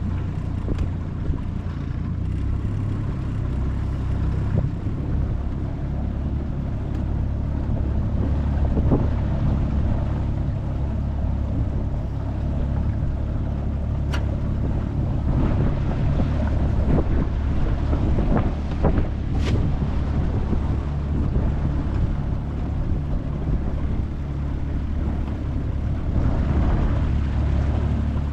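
25 hp Mercury four-stroke outboard running steadily as the jon boat cruises, with wind on the microphone and a few brief thumps around the middle.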